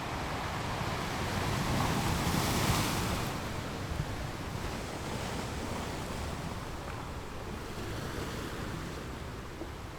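Ocean surf breaking on a beach. One wave swells and crashes about two to three seconds in, then the water settles back into a steady wash.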